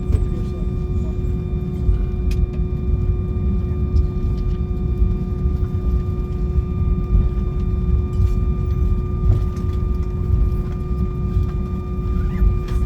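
Cabin noise of an Airbus A319 taxiing: a steady low rumble with several steady whining hum tones from the engines and aircraft systems, and a few faint clicks.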